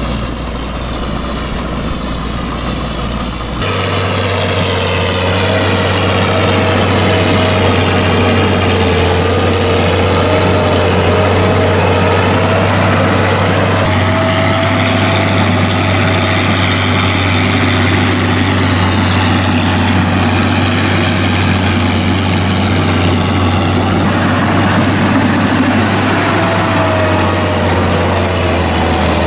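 Tractor engine running steadily, with its pitch drifting slightly. The sound changes abruptly about three and a half seconds in, where one clip cuts to another.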